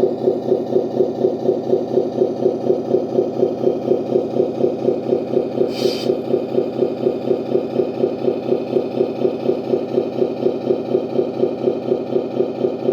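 Servonaut SM3 sound module in a 1:14 Tamiya Scania 770S RC truck playing a Scania V8 idle: a steady pulsing rumble at about four beats a second. A brief hiss cuts in about six seconds in.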